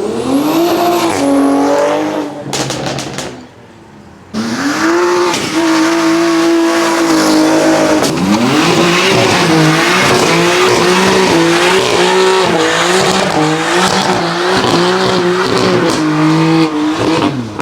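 High-performance car engines revving hard as cars accelerate away: the revs climb and hold, drop and climb again about eight seconds in, then surge up and down about once a second. A drop in level about three seconds in and a sudden return about four seconds in suggest two separate departures.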